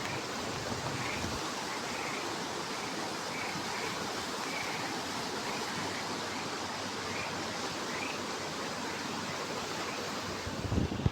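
Steady rush of flowing stream water, with faint short bird chirps repeating over it and a few low thumps near the end.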